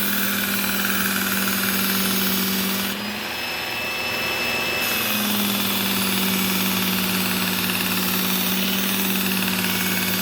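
Work Sharp Ken Onion belt knife sharpener running with a steady motor hum and the hiss of the abrasive belt on a blade. About three seconds in, the sound eases for about two seconds, then picks up again.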